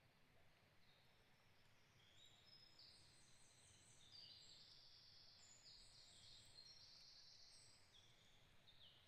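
Faint birdsong: from about two seconds in, a run of quick, high, overlapping notes, some held level and some falling, over a low steady hiss of forest ambience.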